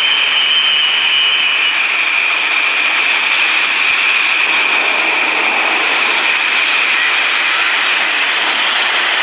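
Subway train running on the track: a steady loud rush of wheels on rail with a high-pitched whine on top. A second, higher whine cuts off after about a second and a half.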